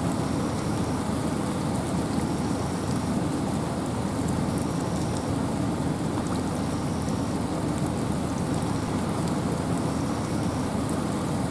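Steady rain falling in a forest, with a low wind rush beneath it. A faint short high note recurs about every two seconds.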